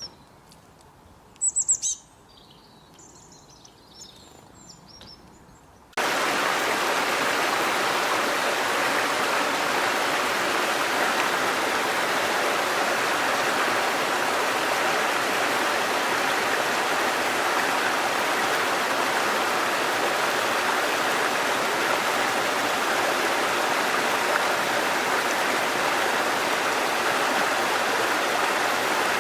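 Wild birds calling: a loud, high chirp about a second and a half in, then softer calls. About six seconds in, this cuts abruptly to the steady rush of flowing stream water, which continues unchanged.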